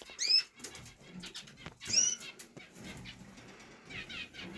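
Small cage birds calling: a few short, single chirps spaced a couple of seconds apart, with light fluttering and small clicks between them.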